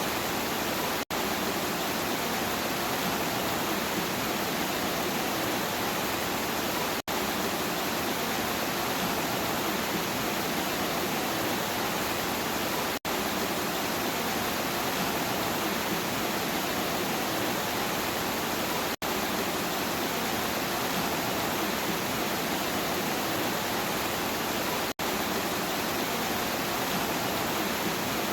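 Steady, even rain noise spread across all pitches, with no single drops or thunder standing out. It cuts out for an instant about every six seconds, five times, as a looped recording does at its seam.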